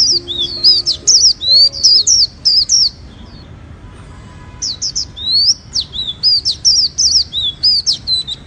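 Chòe songbird song, played as a training recording to press the chòe voice onto a young white-eye. Rapid runs of high, sweeping whistled chirps, with a pause of about a second and a half near the middle.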